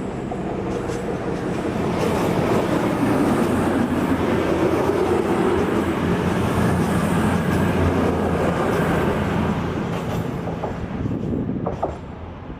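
A CrossCountry diesel passenger train pulling out of the station and running past under power: diesel engines and wheels on rail. It grows louder over the first couple of seconds, stays loud, then fades away near the end.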